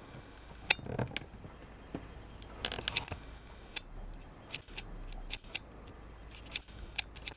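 Scattered sharp clicks and a few short scrapes of hand work at a metal lathe, the loudest click about a second in.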